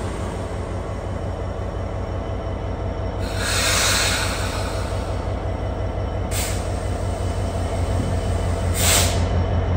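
A train with a steady low rumble, broken by a longer hiss about three seconds in and two short hisses later.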